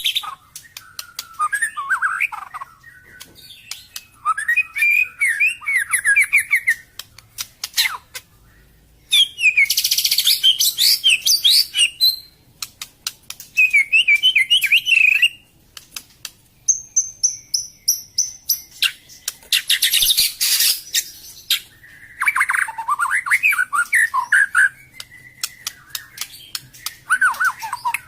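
White-rumped shama (murai batu Medan) singing: loud, varied phrases of rapid sliding notes and trills, broken by short pauses and sharp clicking notes, with a run of high, even whistled notes about two-thirds of the way through.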